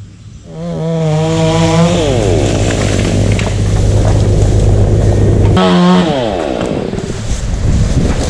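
Chainsaw revving up and running at high speed. About halfway through it drops off for a moment and revs up again.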